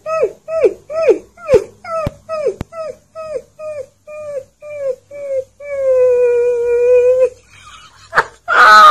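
A dog yipping in a quick series of short cries, each falling in pitch, about two to three a second. About six seconds in come two long, steady howls. Near the end there is a brief, louder noisy burst.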